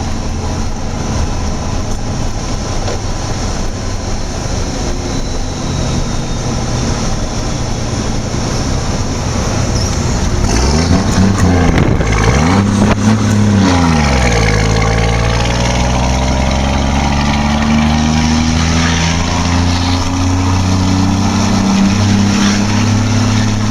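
Rescue car's engine heard from inside the cabin on a lap of a race track, with steady wind and road noise. About ten seconds in the revs rise and fall twice, then the engine pulls steadily, its pitch climbing slowly as the car accelerates.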